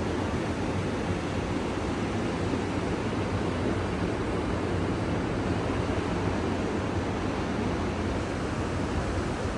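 Atlantic Ocean surf: a steady, even wash of breaking waves.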